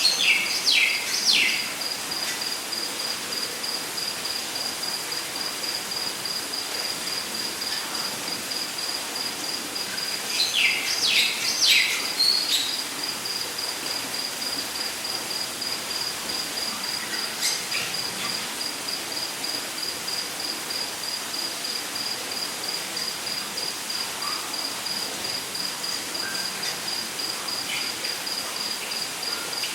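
Rainforest ambience: an insect trills in an even, high pulsing chirp throughout, over a steady hiss. A bird gives a run of three or four loud, sharply falling calls right at the start and again about eleven seconds in, with a few fainter calls later.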